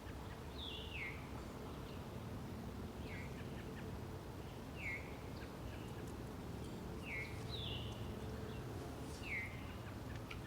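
Faint bird calls: short downward-sliding chirps, one every second or two, over a low steady background hum.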